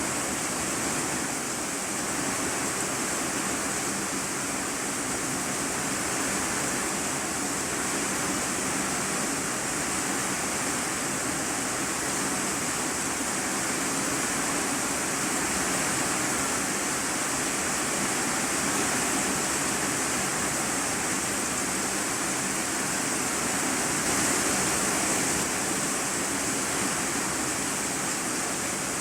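Steady heavy rain drumming on a corrugated iron-sheet roof, heard from the room beneath it as a dense, even hiss.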